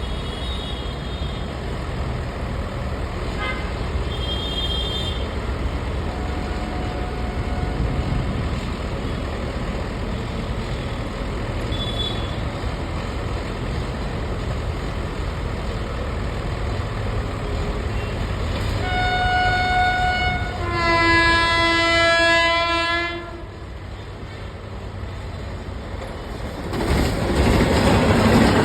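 A train approaching with a steady low rumble, sounding its horn twice about two-thirds through: a short higher blast, then a lower, longer blast of about two seconds. Near the end it reaches the platform and passes close by with a loud rushing noise.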